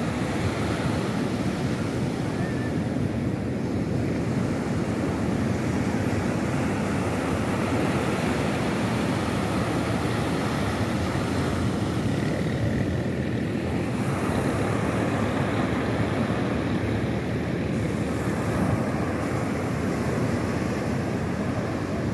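Sea surf washing steadily, mixed with low wind noise on the microphone.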